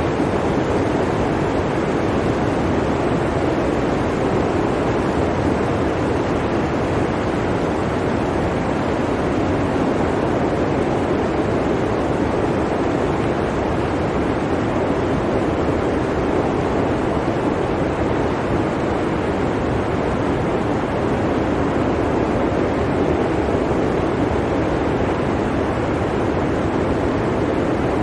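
Blizzard wind blowing steadily, an even rush of noise with no separate gusts or events.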